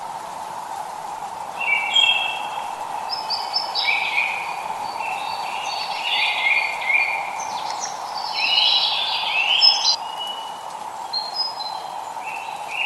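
Songbirds singing in quick chirping, warbling phrases, busiest from about two seconds in until about ten seconds and again near the end, over a steady hiss of light rain.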